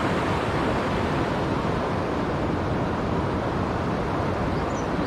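Waterfall on a rain-swollen river rushing steadily, an even, continuous noise of falling water.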